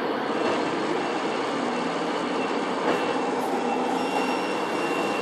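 Steady truck-engine sound from the sound module of a 1:14 scale RC truck, played through its small speaker, with faint high beeping tones in the second half.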